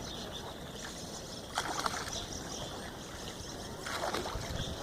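Oars of a rowing boat dipping and splashing in the river, two strokes a little over two seconds apart, over a steady hiss of water.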